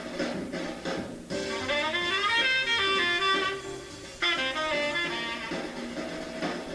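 Jazz recording with a tenor saxophone playing a run of sustained notes, in two phrases with a short break between them, over piano, bass and drums.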